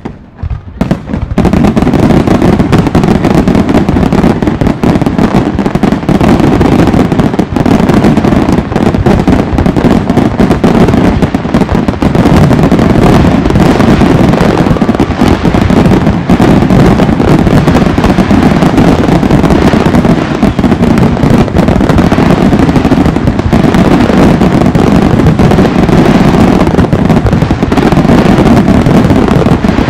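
Barrage of aerial firework shells bursting in quick succession. From about a second and a half in, the bangs overlap into one unbroken, very loud din of booms and crackle.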